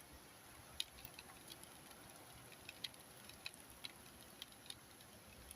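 Scattered raindrops tapping on a hard surface: faint, sharp ticks at irregular intervals, about a dozen in a few seconds, over a faint steady hiss.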